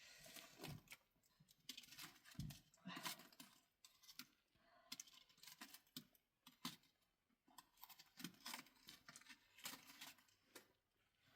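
Faint, irregular clicks and light knocks, a few each second, with no speech.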